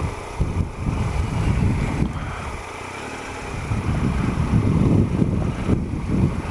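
Triumph Explorer's 1215cc three-cylinder engine running at low speed on a slippery track, mixed with wind buffeting on the microphone; it eases off about midway, then picks up again.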